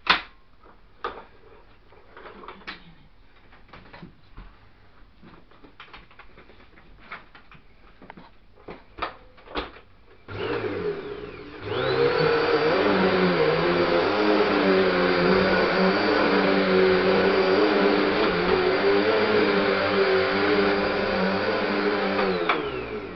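Hoover Hurricane Bagless Pet upright vacuum cleaner: scattered clicks and knocks for about ten seconds, then the motor switches on with a rising whine, runs steadily and loudly, and winds down with a falling whine just before the end. It is not as noisy as some vacuum cleaners.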